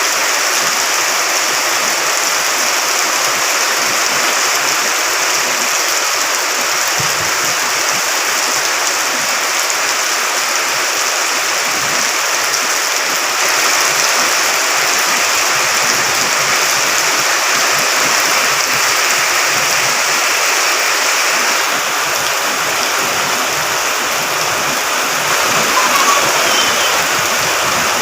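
Steady, loud rush of running water, such as a swollen stream or floodwater after prolonged rain.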